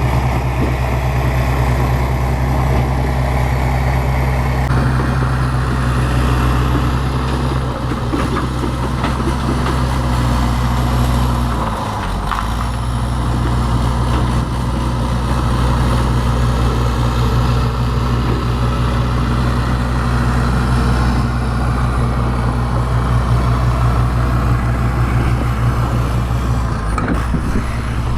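Bulldozer's diesel engine running steadily, with a brief dip in engine speed about twelve seconds in before it picks back up.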